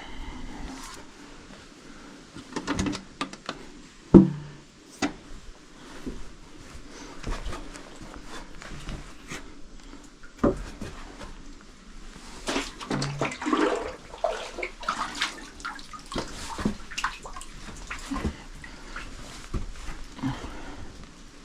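Water splashing and sloshing, with scattered knocks and one loud thump about four seconds in, busiest a little past the middle.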